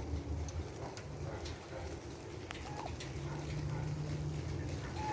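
A few short, high bird chirps spaced a second or more apart over a steady low rumble.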